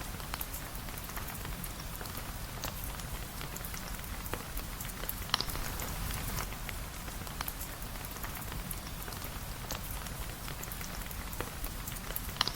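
Steady rain falling, with many scattered sharp clicks and a low rumble underneath; the loudest click comes about five seconds in.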